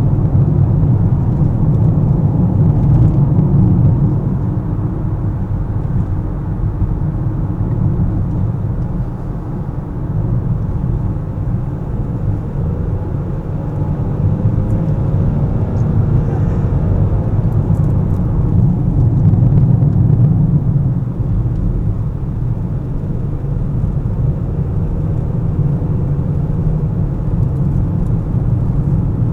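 Car driving in traffic: a steady low rumble of engine and road noise, easing off a little about ten seconds in and again past twenty seconds before picking back up.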